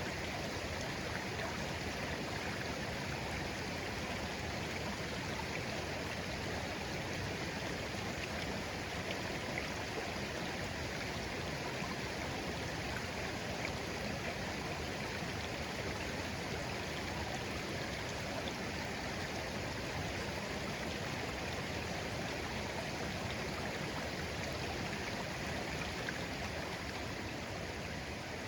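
Shallow clear stream flowing gently over stones, a steady, unbroken babbling with no distinct splashes.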